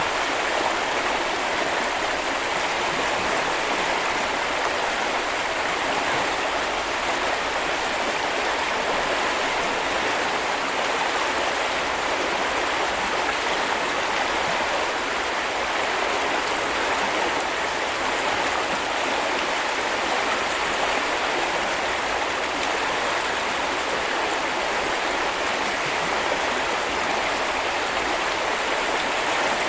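Small river or brook flowing over stones, a steady, even rush of water.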